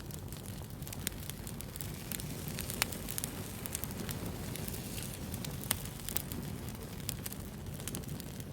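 Wood fire burning steadily with a low rush and irregular sharp crackles and pops, a couple of louder pops about three and six seconds in.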